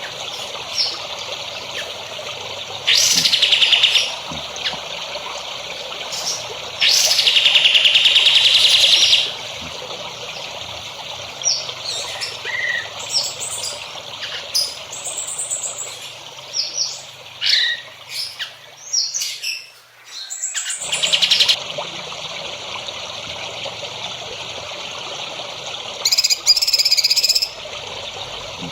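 Songbird singing: a series of short chirps and whistles broken by loud, rapid buzzy trills lasting one to two seconds each, over a steady background hiss.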